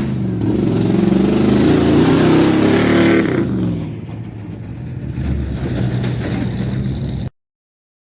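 A vehicle engine revving: its pitch climbs over the first few seconds, drops back about three seconds in, and it then runs steadier until it cuts off suddenly near the end.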